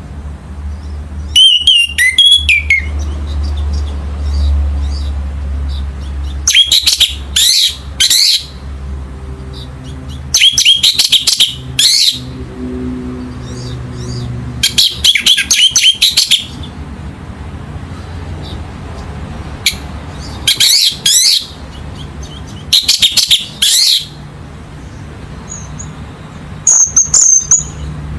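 Orange-headed thrush singing: about seven loud, short phrases of fast, rising-and-falling whistled notes, spaced a few seconds apart, the last one higher-pitched. A steady low hum runs underneath.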